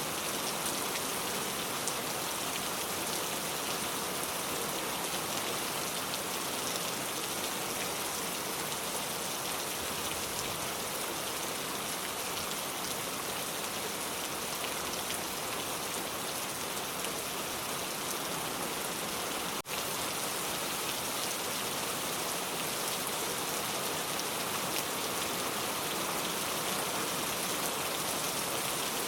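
Steady rain falling, an even hiss with many scattered drop hits close by. There is a momentary dropout about twenty seconds in.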